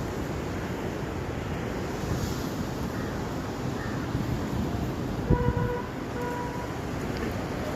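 Steady street traffic noise; a little past five seconds in, a horn sounds twice in short toots.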